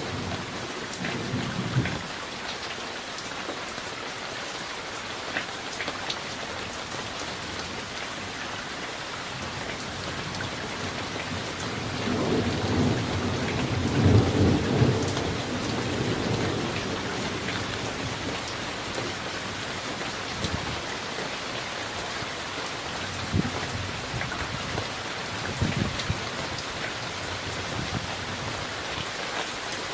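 Steady summer rain with scattered sharp drips, and a roll of thunder that swells near the middle, peaks and rumbles away; a fainter rumble passes near the start.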